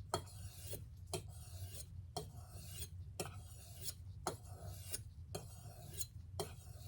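Chef's knife blade being drawn across a sharpening stone in steady rasping strokes, about one a second, each starting with a light click as the edge meets the stone.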